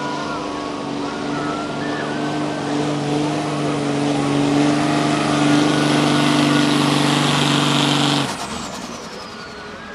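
Street 4x4 pickup truck engine running flat out against the pulling sled, its note held steady and growing louder, then cut off suddenly about eight seconds in as the run ends, with a whistle winding down afterwards.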